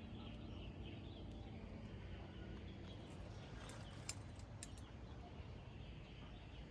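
Faint outdoor background noise with a low rumble and a few sharp clicks about halfway through.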